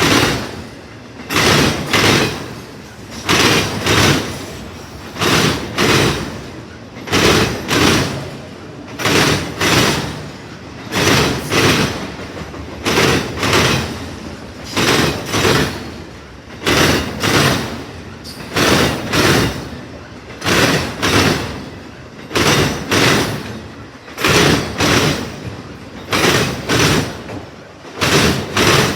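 Freight cars of a CSX train rolling past, their wheels clacking over a rail joint in quick pairs that repeat about every two seconds.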